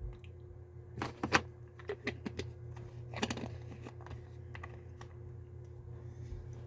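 Pills rattling and clicking in a vitamin bottle as it is handled, in a few short clusters about one, two and three seconds in. A steady low hum runs underneath.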